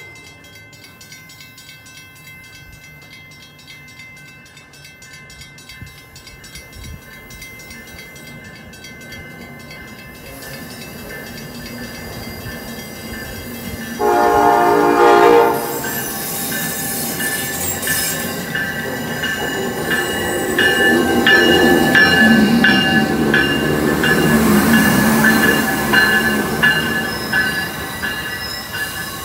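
Amtrak ACS-64 electric locomotive's horn sounding one loud blast of about a second and a half, then the Northeast Regional train running past, its rush building to a steady noise with a whine and rhythmic clicking of wheels over the rails.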